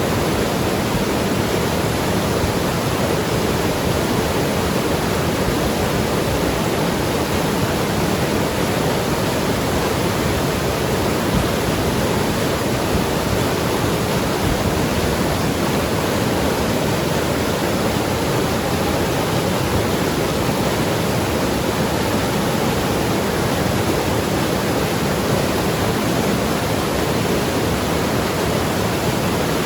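Mountain river rushing and tumbling over rocks, a steady, unbroken wash of water noise.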